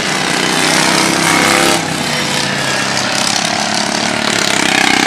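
Engines of 16–20 hp racing lawn tractors running at speed around the track, several at once. Their pitches rise and fall as the drivers throttle through the laps.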